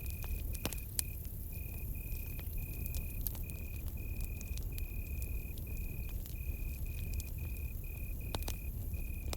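Campfire crackling, with scattered sharp pops over a low steady rumble. Through it a cricket chirps in an even pulsed rhythm, about two chirps a second.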